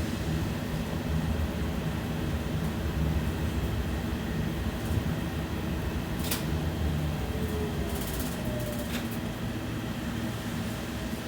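BKM 60102 tram running along its rails between stops, heard from on board: a steady low rumble of wheels and running gear, with a few sharp clicks a little past halfway.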